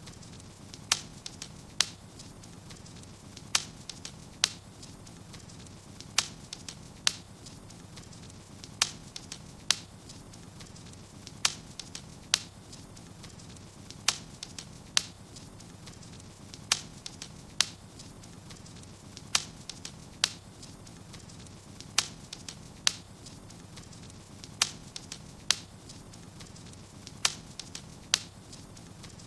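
Wood fire in a fireplace crackling: sharp pops, mostly in pairs about every two and a half seconds, over a low steady rush of flames.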